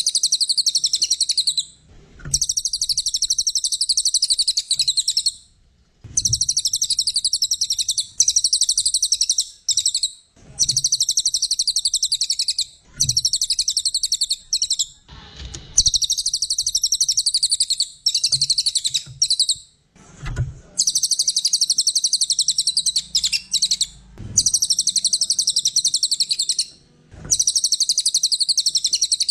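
Cililin songbird singing in long, very fast high trills, each lasting a few seconds and separated by short pauses, about eight phrases in all. Faint low knocks come in some of the pauses.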